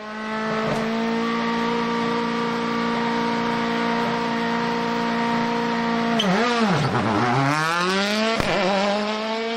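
Racing car engine held at steady revs, then the revs drop away twice and climb back up over a couple of seconds, with a sharp click near the end.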